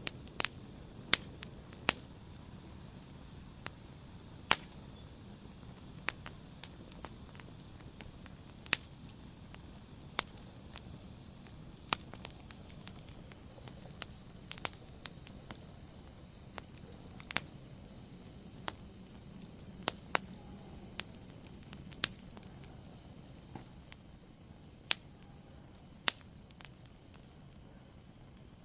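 Wood fire burning in a fireplace: irregular sharp crackles and pops, some singly and some in quick pairs, over a soft steady low rush of the flames.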